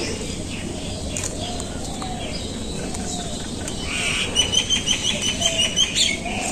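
Songbirds calling: lower arched calls recur throughout, and about two-thirds of the way in a rapid run of high chirps lasts about two seconds.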